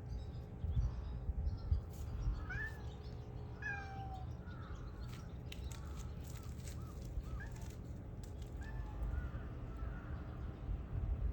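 Cat meowing in a series of short calls, with a low wind rumble on the microphone.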